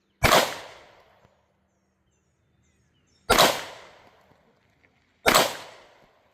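Three pistol shots from a Canik Prime, spaced about three seconds and then two seconds apart, each followed by a short echoing tail.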